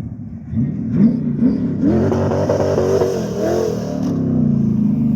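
Chevrolet LS1 5.7-litre aluminium V8 in a sand buggy revving and accelerating, its pitch climbing and falling through the middle, then running steadier near the end.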